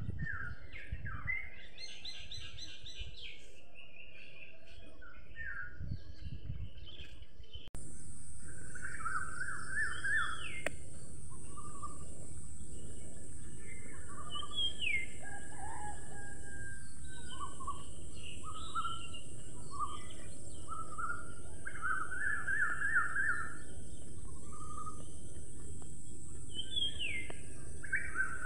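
Birdsong: several small birds chirping and calling in short repeated phrases. About eight seconds in, the ambience changes abruptly, getting louder and adding a steady high-pitched hiss under the chirps.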